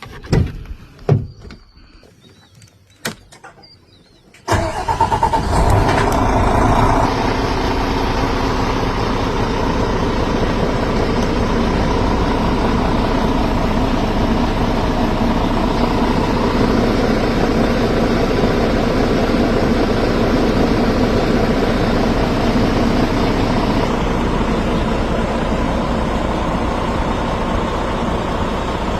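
A few short clicks and knocks, then about four and a half seconds in a Volvo truck's engine starts and runs on at a steady idle.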